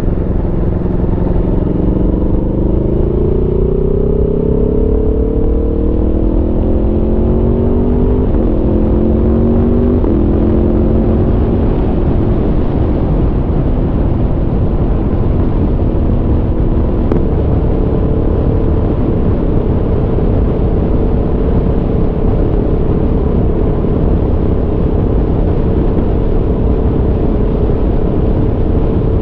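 Aprilia Tuono V4 motorcycle's V4 engine under way, revs climbing for several seconds, with gear changes about eight and ten seconds in, then holding a steady cruise. A heavy low rush of wind and road noise runs under it.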